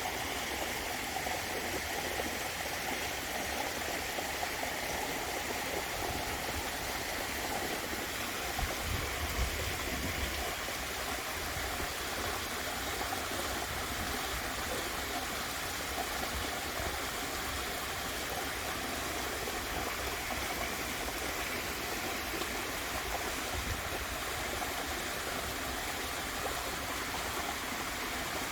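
Waterfall water rushing and splashing in a steady, even wash of noise, with a brief low rumble about nine seconds in.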